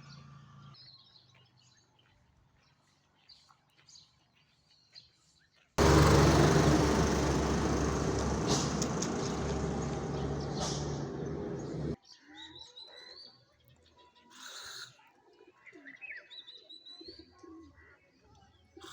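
Birds chirping and calling, with short whistled notes. For about six seconds in the middle they are drowned by a loud, even noise that starts and stops abruptly.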